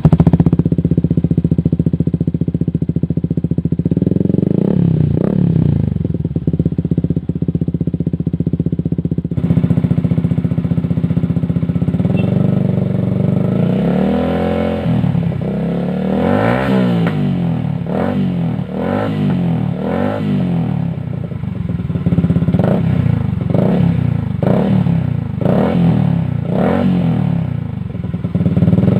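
Motorcycle running through a cheap Akrapovic-replica ('Akralingga') racing exhaust with a thin-walled silencer. It idles steadily at first, then from about halfway it is revved in repeated blips, about one a second.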